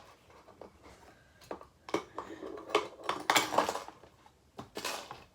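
Small metal parts of a butterfly knife trainer clicking and clattering as they are handled: a series of irregular sharp clicks and short rattles.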